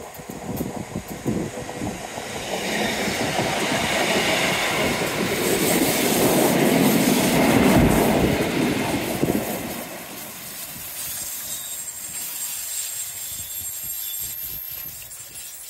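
Class 150 Sprinter diesel multiple unit passing close by. Its engines and wheels on the rails grow louder as it approaches, are loudest for a few seconds as the carriages go past, then fade as it pulls away. No horn is sounded.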